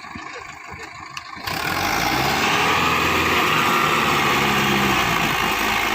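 Tractor diesel engine running hard, coming in loud about a second and a half in, its pitch rising slightly and then easing off.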